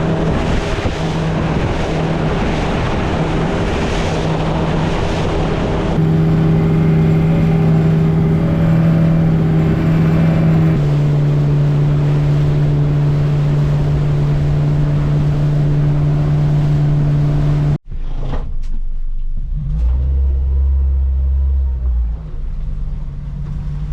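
Charter boat's engine running steadily under way, its pitch stepping up about six seconds in and dropping to a lower note a few seconds later. It cuts off abruptly near the end to a quieter low rumble.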